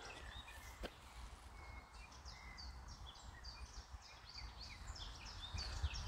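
A small songbird singing: a fast run of short, high notes that each slide downward, about three a second, starting about two seconds in, over a faint low rumble.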